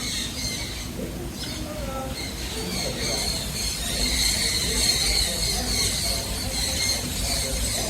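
A chorus of many birds chirping steadily, their high calls overlapping, with people's voices murmuring underneath.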